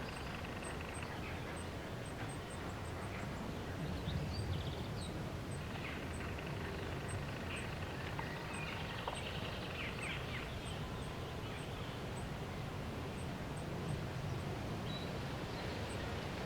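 Small birds chirping and singing at intervals over a steady low outdoor rumble.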